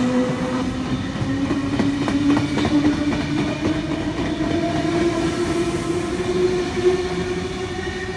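V-set double-deck electric train passing through a station platform: a steady whine that slowly rises in pitch under the running noise, with a run of wheel clicks over rail joints about two to three seconds in.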